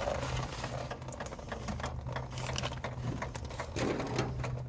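Coolant draining from a truck radiator, dripping and pattering irregularly into a pan, over a steady low hum.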